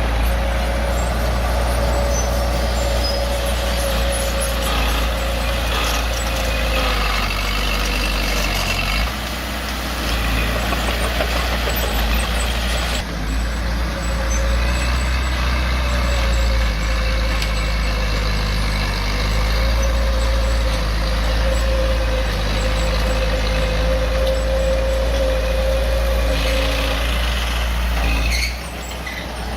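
Bulldozer's diesel engine running steadily under work, with a steady high whine over the engine note. The level dips briefly about nine seconds in and drops again near the end.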